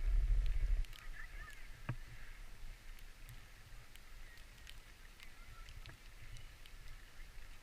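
Wind rumbling on the microphone for about the first second, then a faint hiss of skis sliding on snow with scattered light clicks.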